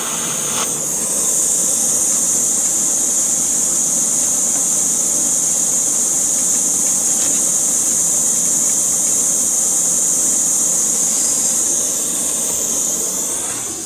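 Hot-air plastic welding gun blowing with a steady high hiss over a low motor hum while it melts and works the plastic of a cracked fairing. The hiss swells about a second in and eases off near the end.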